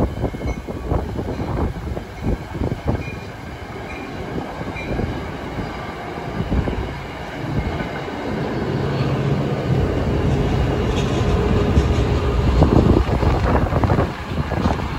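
Commuter train on the tracks: wheels clicking rapidly over rail joints, then a steadier low drone that grows louder from about eight seconds in as the train draws closer.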